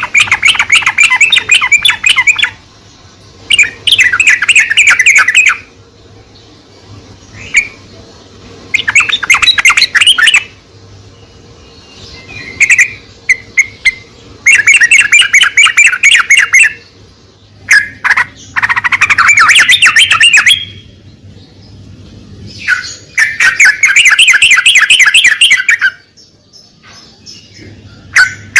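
Yellow-vented bulbul singing: bursts of rapid, bubbling chattering notes, each lasting a couple of seconds and repeated about every four to five seconds, with a few short single calls between them.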